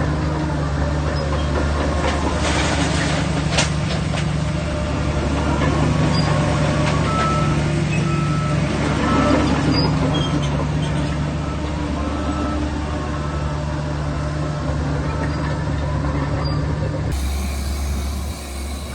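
Shantui DH17 crawler bulldozer's diesel engine running steadily under load, with intermittent metallic clanks and short squeaks from the working machine and a sharp clank about three and a half seconds in. The sound changes abruptly shortly before the end.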